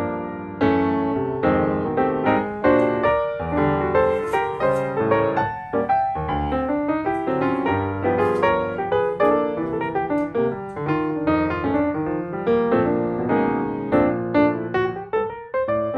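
Background music played on piano: a quick run of struck notes and chords.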